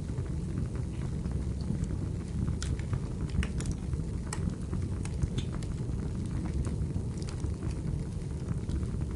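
Wood fire burning in a fireplace: irregular crackles and pops of burning firewood over a steady low rumble of the flames, with a cluster of sharper pops about three to four seconds in.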